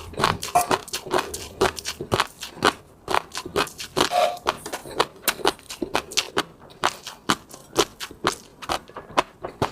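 A person eating close to the microphone: wet chewing and mouth sounds made up of many sharp, irregular smacks and clicks, several a second.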